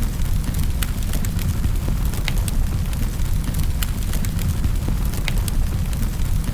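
Fireplace fire burning with a steady low rumble and frequent irregular crackles and pops of burning wood.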